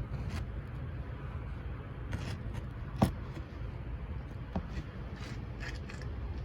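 Steady low, fluttering rumble of wind on the microphone in a snowstorm, with a few faint clicks and one sharper click about three seconds in.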